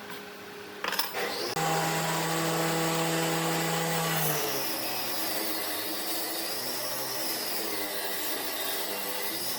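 A woodworking power tool runs on wood. A sharp knock comes about a second in, then the motor sets in with a steady hum under a wide hiss of cutting.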